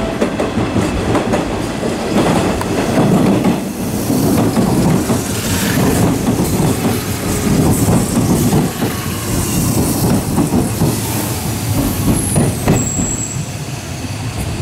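Hanshin Railway electric train rolling over the station points and along the platform, its wheels clattering over the rail joints and crossings. A brief high wheel squeal comes near the end.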